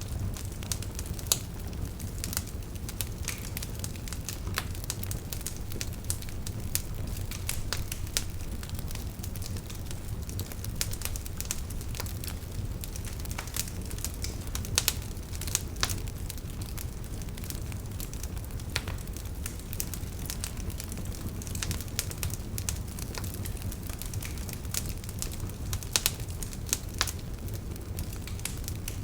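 Wood fire crackling steadily over a low rumble of flame, with frequent irregular sharp pops and snaps, a few louder ones standing out.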